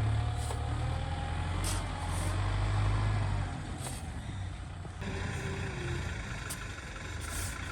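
Kubota ZT 155 DI single-cylinder diesel engine running steadily with a low hum, easing somewhat quieter about halfway through, with a few light rattling clicks.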